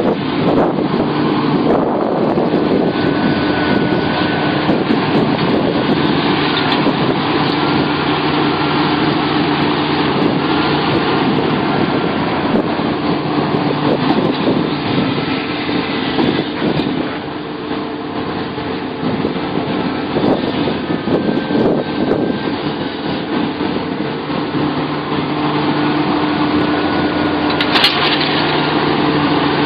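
Sumitomo SH700LHD-5 excavator's diesel engine running steadily, with a faint high whine that comes and goes; it eases off briefly around the middle, and a short sharp noise comes near the end.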